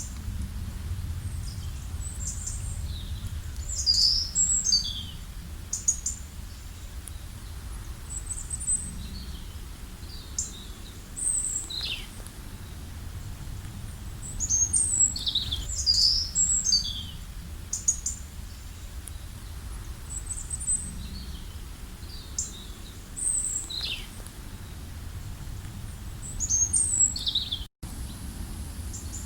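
Songbirds calling and singing in short, high chirps and descending phrases, in bursts of several calls, over a steady low background rumble. The sound cuts out for an instant near the end.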